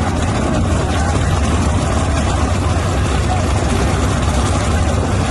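Race vehicle engines idling with a steady, loud low rumble, mixed with crowd voices.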